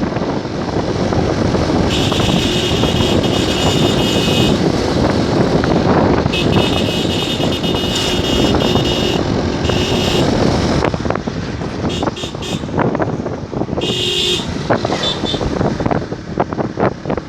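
Motorcycle running along a road with steady engine and wind noise. A high horn tone sounds several times over it, starting about two seconds in, the longest lasting about three seconds.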